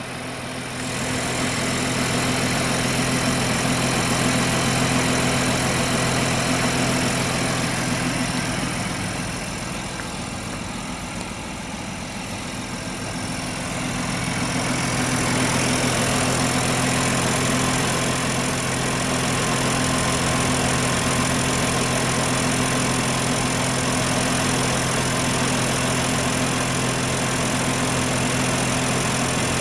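2022 BMW M4's 3.0-litre twin-turbo inline-six engine idling steadily, its level rising about a second in and dipping for a few seconds near the middle.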